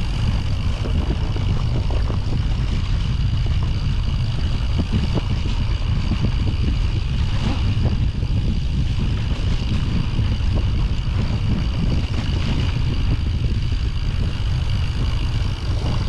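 Mountain bike riding down a snowy trail, picked up on an action camera's microphone: a steady, dense low rumble of wind buffeting and trail vibration, with a faint steady high whine above it.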